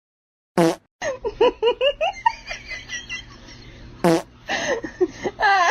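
A short fart-like blast, then laughter in quick high-pitched bursts. A second fart-like blast comes about four seconds in.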